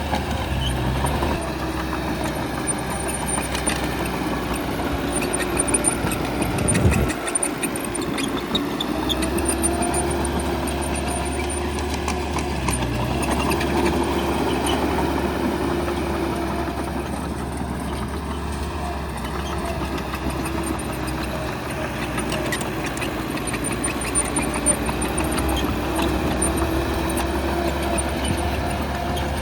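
Bulldozer's diesel engine running and working under changing load, its note rising and falling, with a brief low swoop and dip about seven seconds in.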